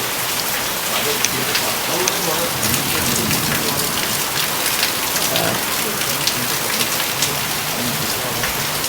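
Steady rain: a dense hiss of falling water with many sharp ticks of drops striking surfaces.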